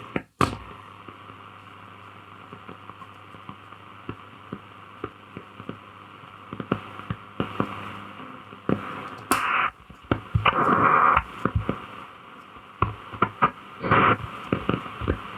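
Shortwave reception from a Grundig Satellit 2100 receiver: a steady hiss with crackling static clicks, swelling louder about nine seconds in and again around fourteen seconds.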